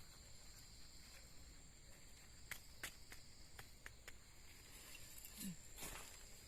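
Faint steady high-pitched chirring of insects, with a few small sharp clicks in the middle and a short rustle near the end.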